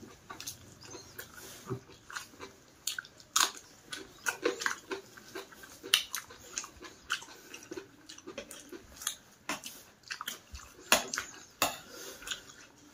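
Close-up chewing and lip-smacking of a person eating rice and curry by hand: irregular wet smacks and clicks of the mouth, several a second.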